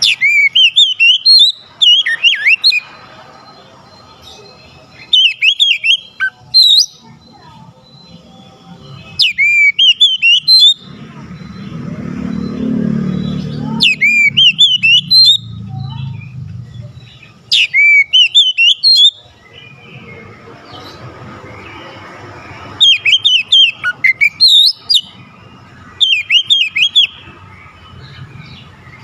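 Oriental magpie-robin (kacer) singing loud, varied whistled phrases with quick up-and-down glides, in about eight bursts of one to two seconds each, separated by short pauses. A low rumble rises in the background around the middle.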